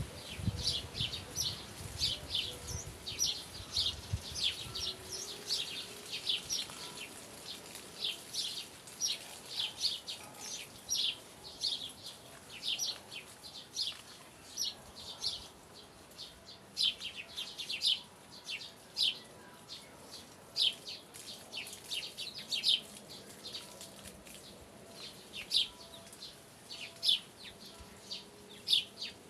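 Small birds chirping: quick, high, short chirps in irregular runs, several a second. A low rumble is under them for the first few seconds, then fades.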